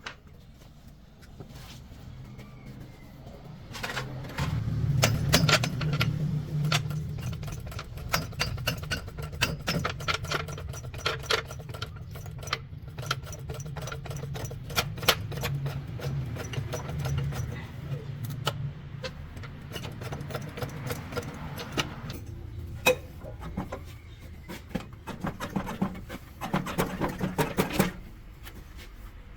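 A machine running with a steady low hum under rapid metallic clicking and clinking. It starts about four seconds in and stops near the end.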